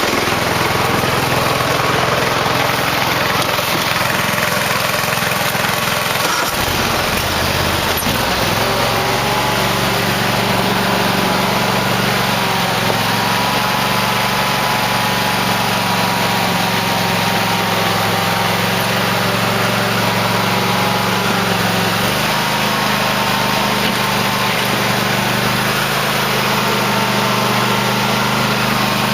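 Cub Cadet LT1050 lawn tractor engine running steadily while plowing snow. Its pitch shifts about six to nine seconds in and again about twenty-two seconds in, as the load changes.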